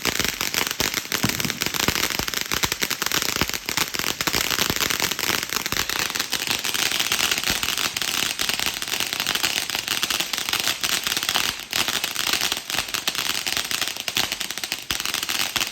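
Consumer fireworks crackling and popping in a dense, continuous rapid-fire stream, thickest in the middle.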